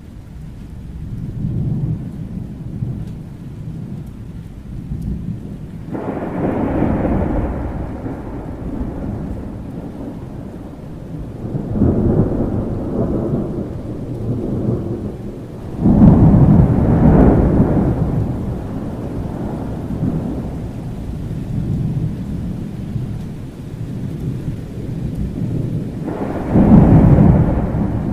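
Thunderstorm: a steady low rumble of thunder under rain, with four louder rolling peals, the loudest about two thirds of the way through and another near the end.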